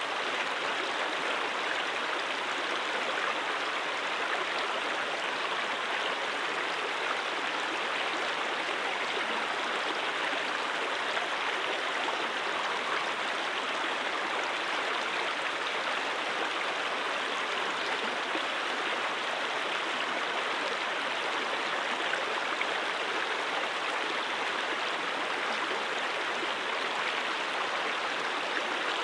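Steady rushing and babbling of a flowing mountain stream over rocks.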